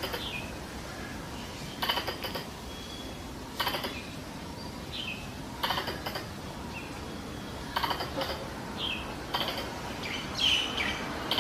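Squirrel calls played as a hunting lure: short bursts of rapid chattering that repeat about every two seconds, with brief falling chirps between them.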